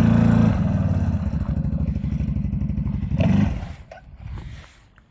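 Vehicle engine held at high revs, then dropping to an even pulsing run. It gives one short blip of throttle about three seconds in, then stops and dies away to near silence.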